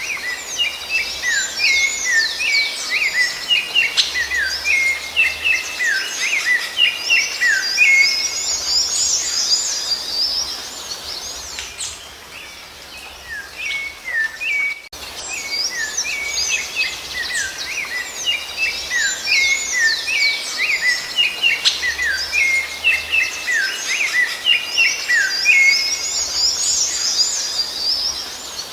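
Rufous-bellied thrush (sabiá-laranjeira) song: fast runs of chirped, swooping whistled notes. The song drops to a brief lull about twelve seconds in, then the same passage repeats.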